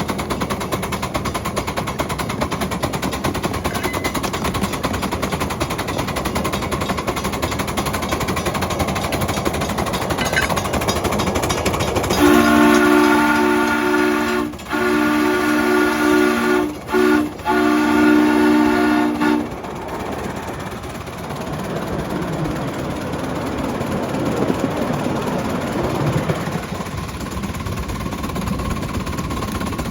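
Chime whistle of the scale Mikado locomotive sounding four blasts, long, long, short, long: the grade-crossing signal. Before and after it, the steady running noise of the locomotive and train.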